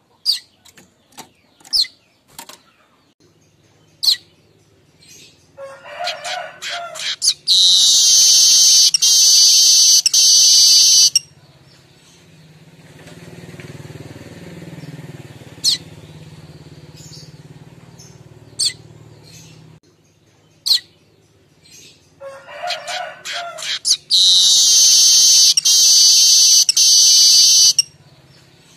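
Streaked weaver song, heard twice: scattered sharp chips build into a rapid chatter, which ends in a loud, dense, high wheezing buzz lasting three to four seconds. This chattering call is the one used to lure the species.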